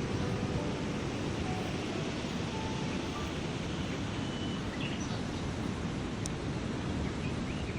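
Steady rush of flowing river water, with a few faint, brief bird calls over it.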